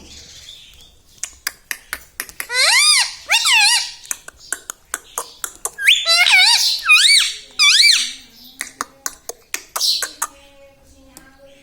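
Pet ringneck parrot giving squeaky calls that arch up and down in pitch: two near the start, then a quick series of them a few seconds later, over many short sharp clicks.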